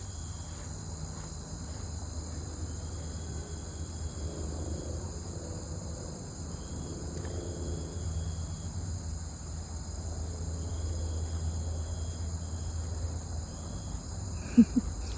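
Steady chorus of crickets and other insects, several high continuous trills with an on-off pulsing one among them, over a low rumble. Two quick knocks near the end.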